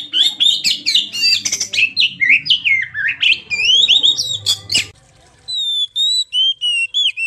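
Recorded song of an oriental magpie-robin (kacer): a fast, varied run of whistles, glides, chirps and harsh clicking notes for about five seconds. After a brief pause comes a run of clear, evenly spaced whistled notes.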